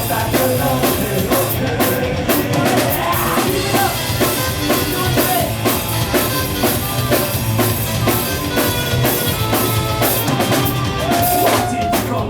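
Live rock band playing loud, the drum kit driving a steady beat under the full band, in a stretch without vocals.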